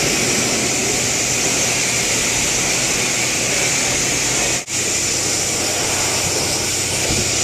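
Car wash equipment running with a loud, steady hiss, broken once by a brief gap about two-thirds of the way through.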